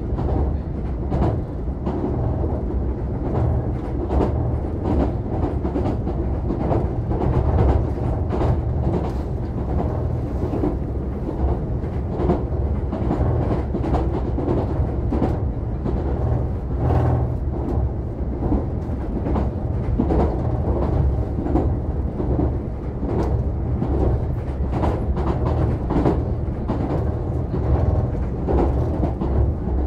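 Passenger train running along the track, heard from inside the carriage: a steady low rumble with frequent clicks and knocks of the wheels over the rails.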